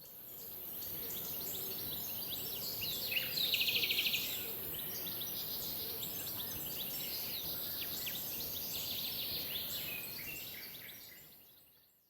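Birds chirping and calling, many short overlapping notes, with one loud rapid trill about three seconds in, over a steady high hiss. It fades in at the start and fades out near the end, like an edited nature-sound track.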